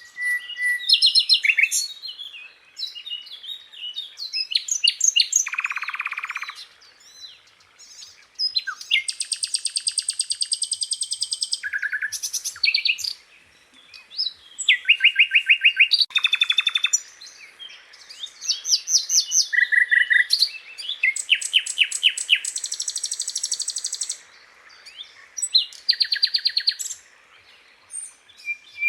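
Sikatan londo (a flycatcher) singing a long, varied song of sharp chirps and fast trilled and rattling phrases, broken by short pauses.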